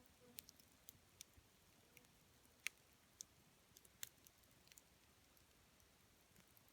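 Wood fire crackling faintly: scattered sharp pops and ticks of burning wood, the loudest a little over two and a half seconds in and another at about four seconds.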